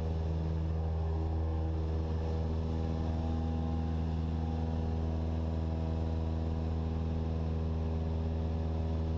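Cessna 172 SP's four-cylinder Lycoming piston engine and propeller running steadily at climb power, a constant low drone heard inside the cockpit.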